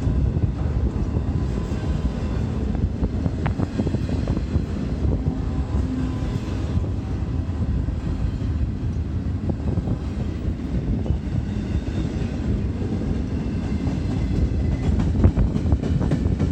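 Intermodal freight train cars rolling past: a steady low rumble of steel wheels on the rails with frequent clicks and clattering.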